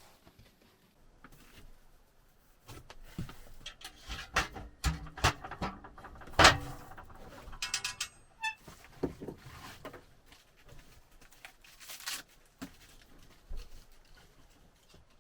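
Irregular knocks and clatters of objects being handled, densest in the middle, with one loud knock about six and a half seconds in and a quick run of small ticks shortly after.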